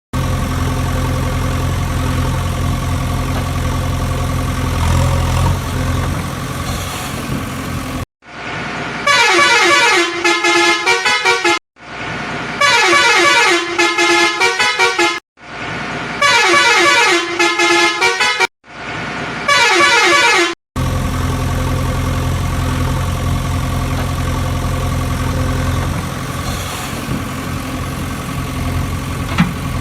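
A heavy vehicle engine drone, steady and low, is interrupted after about eight seconds by four runs of quick horn honks. Each run steps down in pitch and is split off by a brief silence. The engine drone then resumes.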